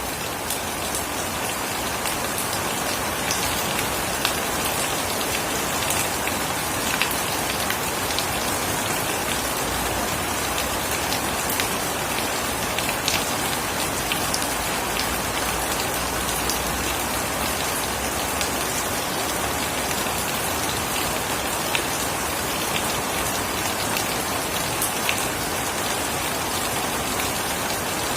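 Steady heavy rain falling, a dense even hiss with many sharp individual drop ticks scattered through it.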